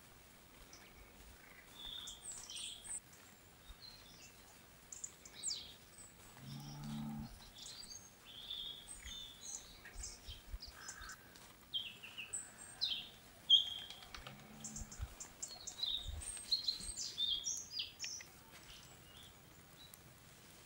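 Wild songbirds chirping and calling in woodland, short high notes scattered irregularly throughout.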